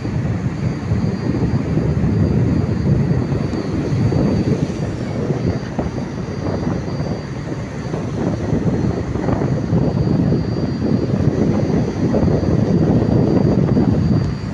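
Strong wind buffeting the microphone, with a tugboat's engine running underneath as a steady low drone.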